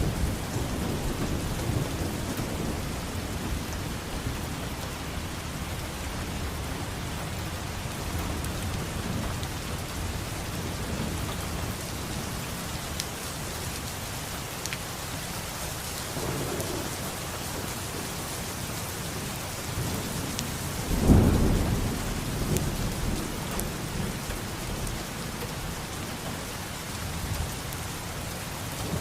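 Steady rain falling, with rolling thunder: a rumble fading out at the start, a softer one about 16 seconds in, and a loud thunderclap about 21 seconds in that rumbles away over several seconds.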